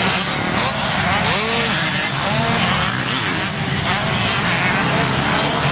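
Several motocross bikes racing on the track, their engines revving up and down in overlapping rising and falling pitches over a steady din.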